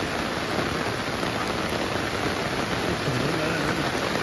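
Heavy rain falling steadily, an even, unbroken hiss of rain hitting the ground and surfaces.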